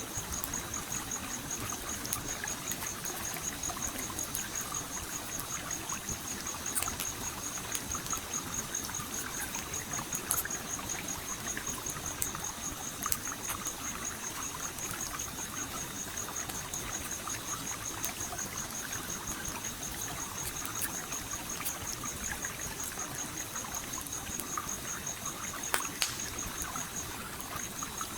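Stream water flowing and trickling steadily, with scattered pops and crackles from a campfire. A high, rapidly pulsing insect chirp runs over it and stops briefly near the end.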